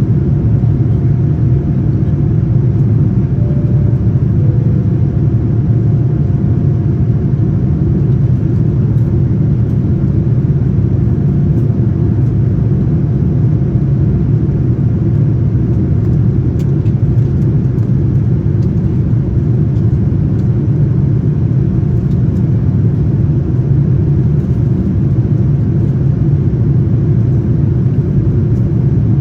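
Steady, loud low rumble of a Boeing 787-9's engines and airflow heard inside the passenger cabin, with a faint steady hum above it.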